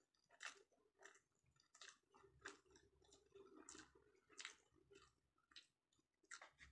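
A person chewing a mouthful of food with lips closed: soft, wet chewing sounds, a small click or smack every half second or so, in an irregular rhythm.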